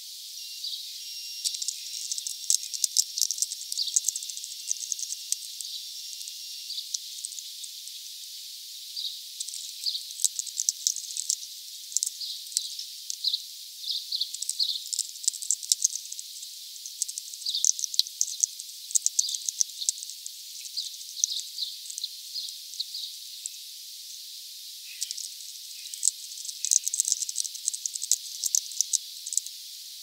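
Small birds chirping: many short, high calls and sharp clicks in clusters that come and go, over a steady hiss.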